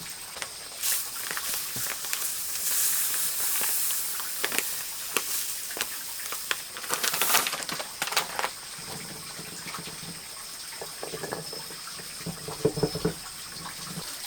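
Water running and splashing in bursts, with scattered small knocks and clicks.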